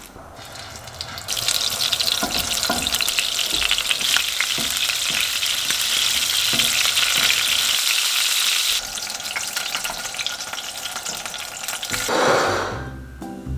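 Shrimp pancakes sizzling as they shallow-fry in oil in a nonstick frying pan, with small clicks of a spatula against the pan. The sizzle starts about a second in and turns quieter about nine seconds in.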